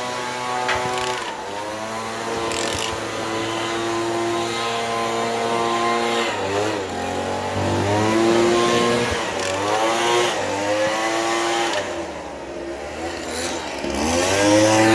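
Dirt bike engine running at high revs, its pitch dropping and climbing back several times as the throttle is let off and opened again, with a longer drop to low revs near the end before it revs up once more.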